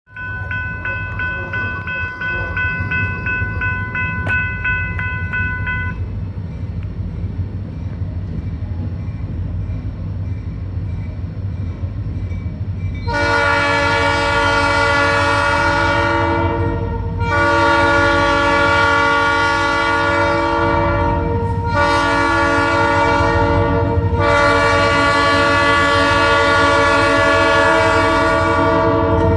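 EMD diesel freight locomotives (SD40-2 and GP40-2) rumbling, with a rapidly pulsing bell ringing for the first six seconds. From about halfway a multi-chime air horn sounds the grade-crossing signal: two long blasts, a short one and a long one.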